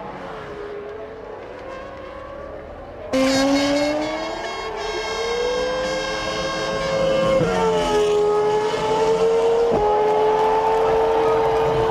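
Formula One car's V10 engine running at high revs. About three seconds in, a fainter engine sound gives way abruptly to a much louder, closer one whose pitch climbs, then drops in short steps twice at upshifts.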